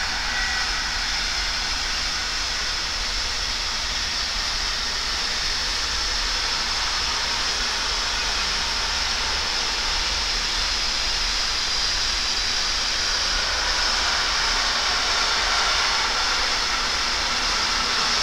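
Freight train of intermodal container and swap-body wagons running past at speed behind an electric locomotive: a steady rushing roar of wheels on rails, growing a little louder in the second half.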